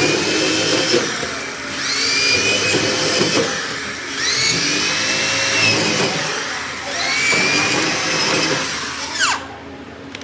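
An electric power tool's motor spinning up again and again: four runs, each a whine that rises quickly in pitch and holds for about two seconds, the last one winding down near the end.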